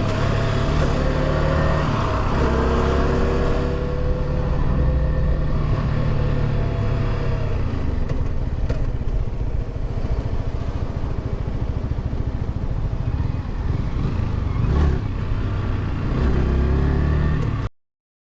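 Yamaha R125 motorcycle's single-cylinder engine running under way, its pitch rising over the first few seconds as it accelerates, then a steadier run. The sound cuts off abruptly near the end.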